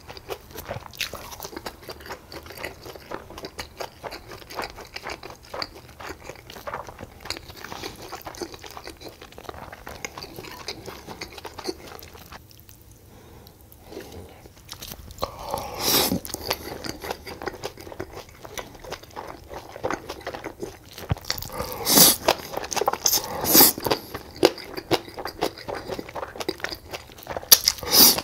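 Close-miked eating sounds: steady chewing with small wet clicks and crunches. Chewing pauses briefly a little before the middle, and about four louder crunchy bites stand out in the second half.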